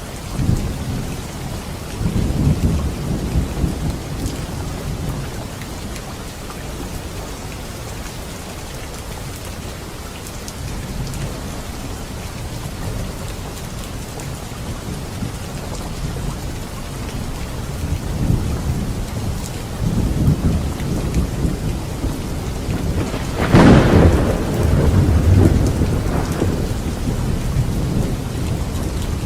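Steady rain hissing throughout, with rolling thunder rumbling low several times and one sharper, louder thunderclap about three quarters of the way through.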